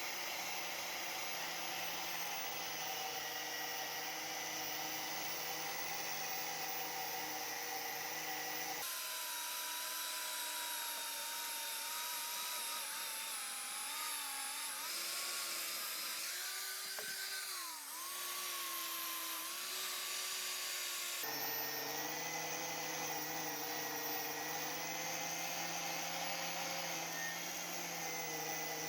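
Electric power tool running steadily with a motor whine. In a higher-pitched stretch in the middle, the pitch sags briefly a couple of times as the tool is pressed into the work.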